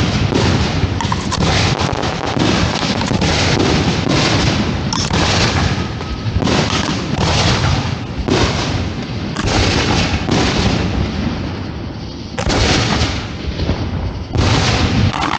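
Aerial fireworks shells launching and bursting in a rapid, continuous barrage, several loud booms and bangs a second over a deep rumble. The barrage eases briefly about three-quarters of the way through, then comes back with heavy bangs.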